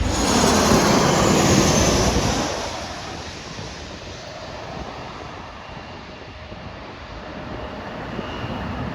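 Jet airliner passing close by: a loud engine roar with a whine that falls in pitch, fading after about two and a half seconds to a distant rumble.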